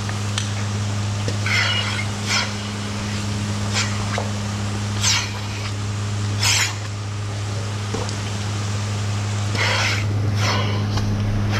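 Steady hum of milking-shed machinery, with short hissing bursts every second or two.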